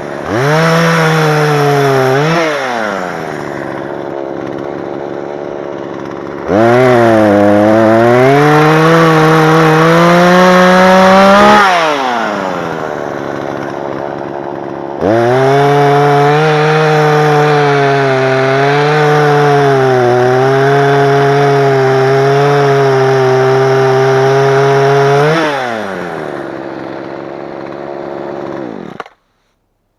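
Two-stroke chainsaw revved up and cutting wood in two long runs, its pitch sagging under load, dropping back to idle between runs. The sound cuts off suddenly near the end.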